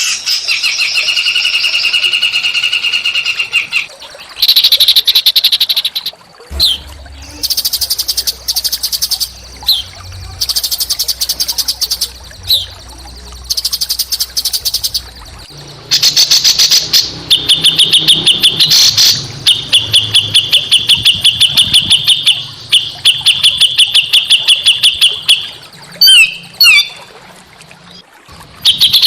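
Small songbirds singing loud, harsh, rapid trills in phrases of one to three seconds with short gaps between them. A faint low hum runs underneath for most of the stretch.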